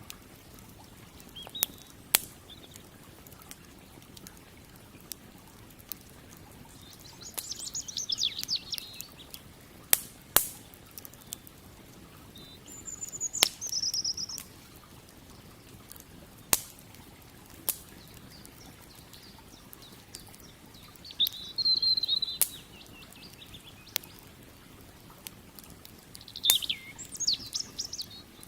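Campfire crackling with scattered sharp pops, while a songbird sings short warbling phrases four times.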